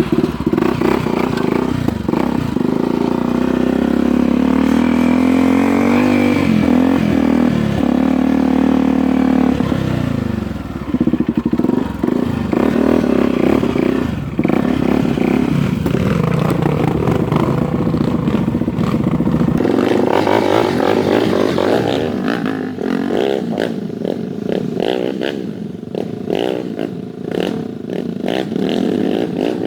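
Motocross dirt bike engine running under way, its pitch rising and falling as the throttle opens and closes. Rattling knocks grow denser in the second half.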